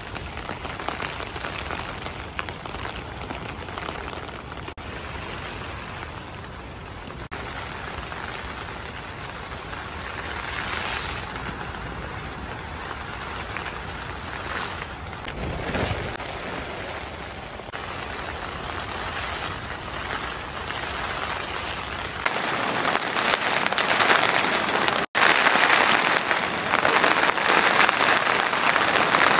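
Rain falling on the fabric of a Decathlon Arpenaz Family 4 tent, heard from inside as a steady hiss of drops. About two-thirds of the way in it cuts abruptly to a louder, heavier downpour.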